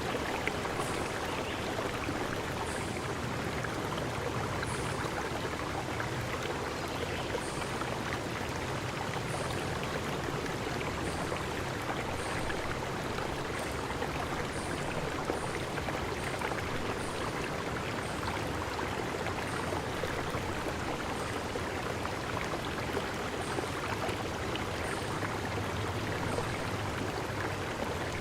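Forest stream flowing steadily over rocks, a continuous rush of water. Faint short high-pitched chirps recur about once a second.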